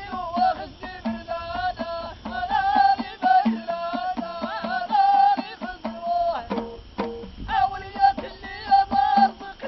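Ahidous music: a group singing a wavering melody in unison over bendir frame drums struck about twice a second, with a short break in the singing about two thirds of the way through.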